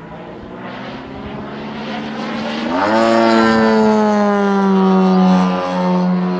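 Giant-scale RC airplane's engine and propeller, growing louder as it comes closer. About three seconds in the pitch jumps up sharply and the sound is at its loudest, then the pitch slowly sags.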